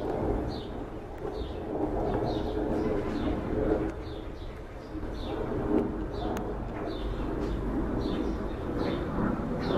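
A bird chirping repeatedly in the background, short falling calls about twice a second, over a low steady rumble.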